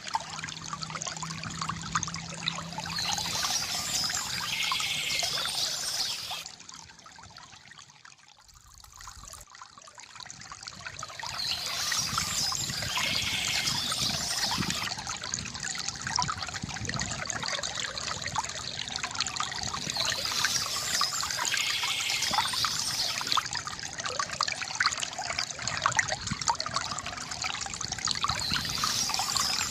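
Water trickling and pouring from a bamboo fountain, steady apart from a brief dip about eight seconds in. A higher sound recurs about every nine seconds over it.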